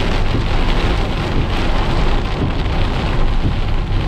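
Heavy rain pouring down, loud and steady.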